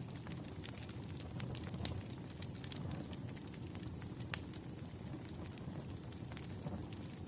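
Burning firewood crackling over a low steady rumble, with scattered sharp pops and one louder snap about four seconds in.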